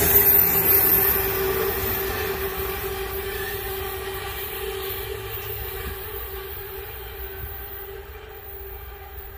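Norfolk Southern freight train rolling past and moving away, its rail noise fading steadily, with one steady tone running through it as it goes.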